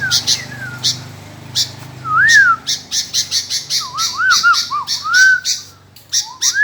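Sooty-headed bulbul (kutilang) singing: short fluty whistled phrases that slide up and down, with rapid sharp chattering notes in between.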